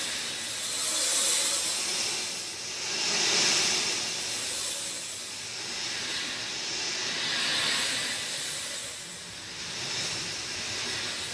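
Rain falling steadily, an even hiss that swells and eases about every two seconds.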